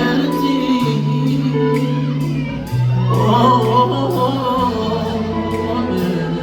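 Live band playing a slow soul song, with long held bass notes changing every second or two and a voice singing a wavering line about three seconds in.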